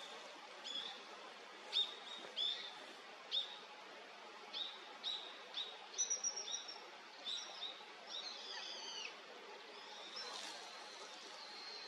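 Male Daurian redstart calling: a string of short, high call notes repeated at irregular intervals, followed in the later part by longer, more tangled twittering phrases.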